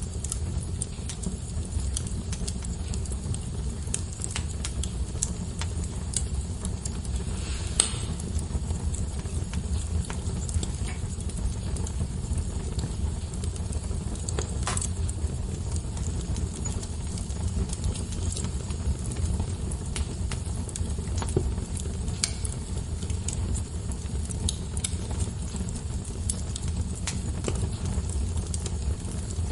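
Wood fire burning in a fireplace: a steady low rumble of flames with constant small crackles and a few louder pops, one about a quarter of the way in and another about halfway.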